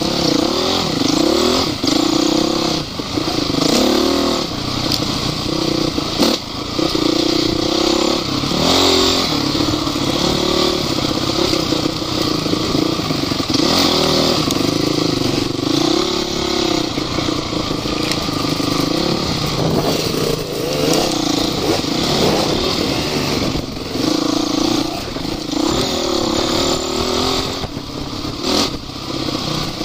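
Off-road motorcycle engine revving up and down continually as it is ridden off-road, with occasional knocks and rattles.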